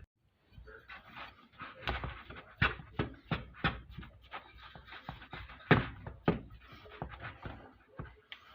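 Irregular clicks, crinkles and knocks of food packaging and a mixing bowl being handled as meatball ingredients are dumped in.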